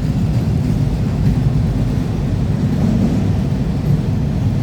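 Freight train cars rolling past: a loud, steady low rumble.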